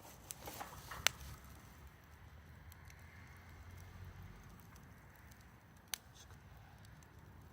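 Wood campfire crackling: a few sparse, sharp pops, the loudest about a second in and another near the end, over a low steady rumble.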